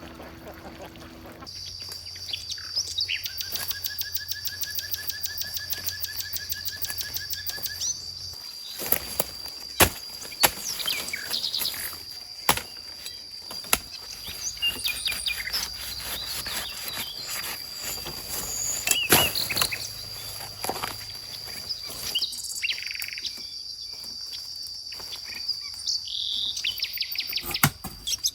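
Birds chirping and calling, over a steady high-pitched whine, with a few sharp knocks in between.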